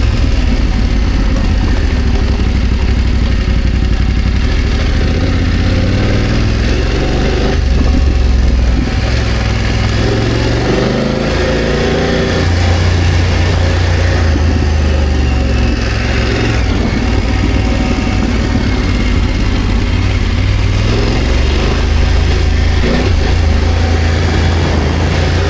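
BMW F 900 GS's parallel-twin engine running loud and steady under way, its revs rising and falling as the bike is ridden, with the engine note climbing about ten to twelve seconds in.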